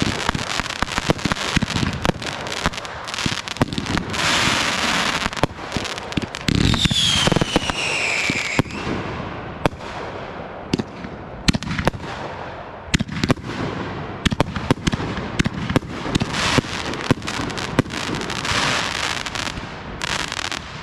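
Fireworks going off: a run of sharp bangs and pops with dense crackling spells, and one falling whistle about seven seconds in.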